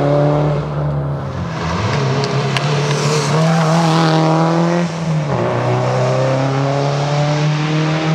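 Subaru WRX STI rally car's turbocharged flat-four engine pulling hard under acceleration. Its pitch climbs, drops sharply at a gear change about a second in and again near five seconds in, then climbs again.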